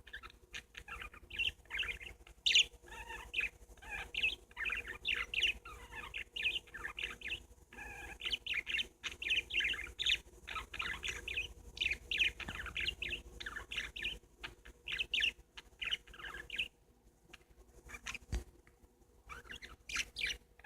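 Several pet parakeets (budgerigars) chattering and warbling, a rapid stream of short chirps, going quiet for a few seconds near the end before starting up again.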